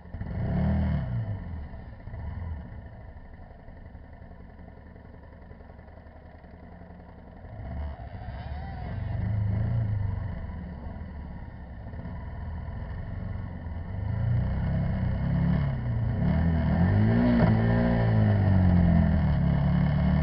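Motorcycle engine revving up and down under riding, with two short throttle blips in the first couple of seconds. From about eight seconds in it pulls harder and gets louder, rising and falling in pitch near the end.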